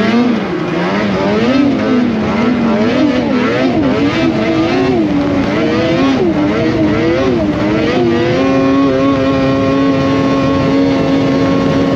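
A Polaris Indy Cross Country 600 snowmobile's two-stroke engine revs up and down repeatedly as the throttle is worked on and off. Over the last few seconds it holds one steady, higher pitch at constant throttle.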